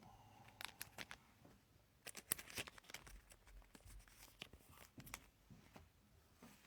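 Faint crinkling and clicking from trading cards and a foil pack wrapper being handled, in a few short clusters.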